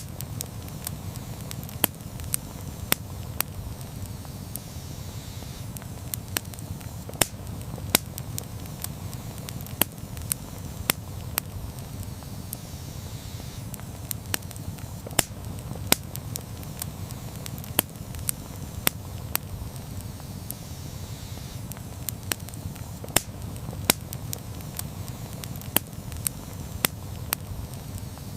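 Wood campfire burning: a steady low rumble of the flames with frequent irregular sharp crackles and pops.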